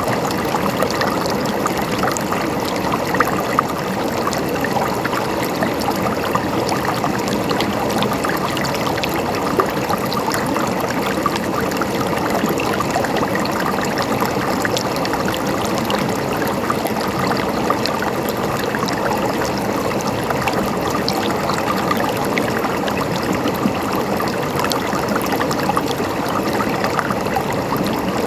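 Mountain stream running steadily, a continuous trickling and splashing of water over rocks with many small splashes.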